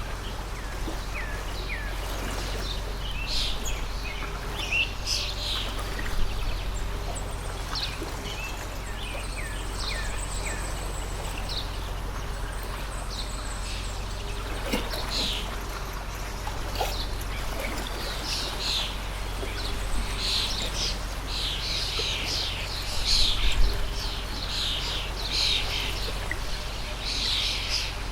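Many small birds chirping and calling in short, quick notes over a steady background rush of a flowing stream. A brief low bump is heard late on.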